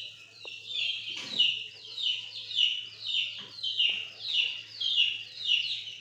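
A bird chirping over and over, about two short high calls a second, each falling in pitch.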